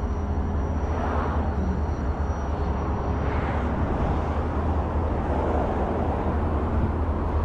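Steady low vehicle and road rumble, with two brief swells of noise, about a second in and again around three and a half seconds.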